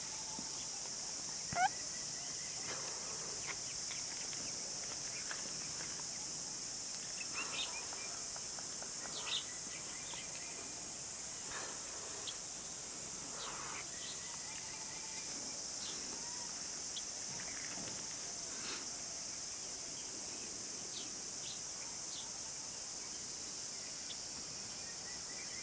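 Forest ambience: a steady high-pitched insect drone, with scattered short bird calls and chirps over it. One louder rising call comes about a second and a half in.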